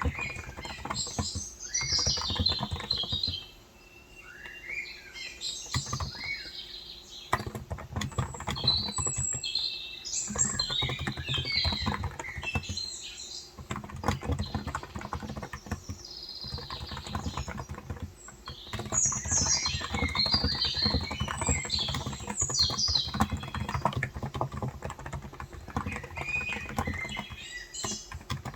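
Typing on a Cox Endeavour electro-capacitive (non-contact) 35 g tenkeyless keyboard: steady runs of soft keystrokes with a few brief pauses. Small birds chirp in bursts over the typing.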